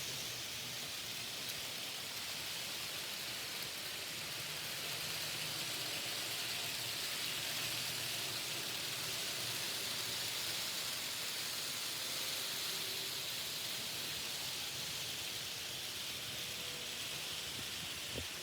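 N-scale model trains running on the layout: a steady, even hiss-like whir of the small locomotive motors and wheels on the track, with faint thin motor tones drifting in and out and a small tick near the end.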